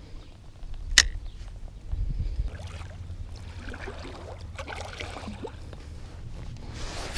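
Handling noise of kayak fishing gear: a sharp click or knock about a second in, then a low rumble and faint scattered clicks and rustles.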